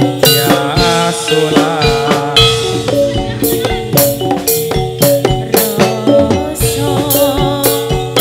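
Live Javanese folk band music for a gedruk dance: drums beating a steady, even rhythm under pitched melodic instruments.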